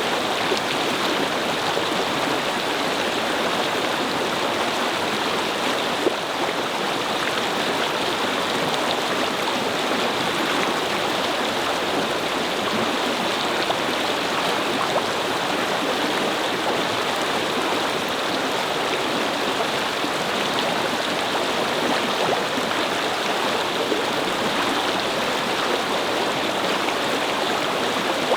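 Brook babbling steadily over stones, a continuous even rush of flowing water.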